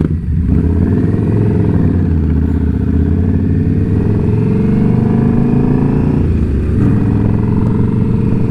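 Indian Scout Bobber's V-twin engine running under way, its note climbing steadily, dropping briefly about six seconds in, then climbing again.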